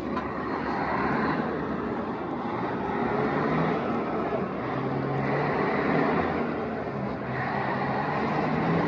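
Car engine noise, swelling and easing several times, as from cars driving past.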